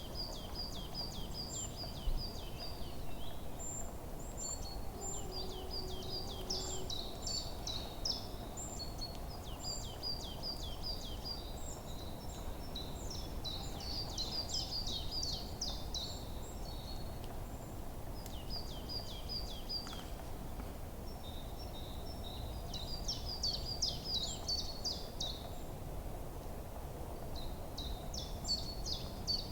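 Songbirds chirping in quick repeated trills, several overlapping, over a steady low background rush of forest ambience.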